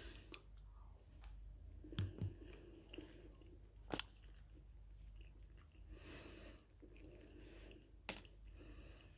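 Faint close-up chewing of cooked shrimp with sweet and sour sauce, wet mouth sounds, with a few sharp clicks about two, four and eight seconds in.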